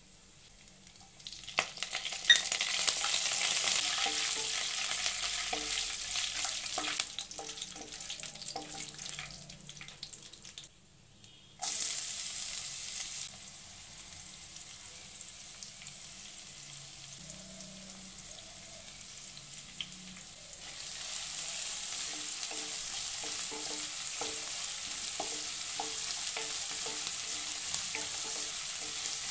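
Hot oil sizzling in a nonstick pan as a tempering of peanuts, chana dal and dry red chillies fries. Near the middle the sizzle cuts out briefly, then jumps back suddenly as onion, curry leaves and chillies go into the oil, and settles quieter. In the last third a spatula stirs the mix, the sizzle is louder, and the scraping strokes come in a steady rhythm.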